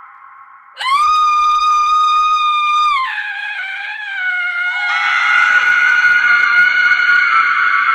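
A woman's horror-effect scream starting suddenly about a second in, held at one high pitch for about two seconds, then dropping lower and wavering; a second scream joins in about five seconds in and is still going at the end.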